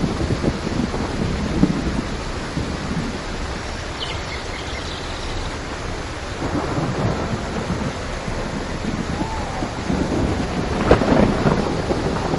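Steady rain with rolling thunder rumbling throughout, swelling to a louder rumble about eleven seconds in.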